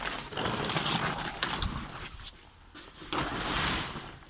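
A car cover rustling and scraping as it is dragged back over the car, in two bursts: one over the first two seconds, another shorter one about three seconds in.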